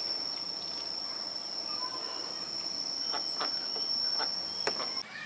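Insect buzzing: a steady high-pitched drone that cuts off suddenly near the end, with a few sharp clicks in the last two seconds.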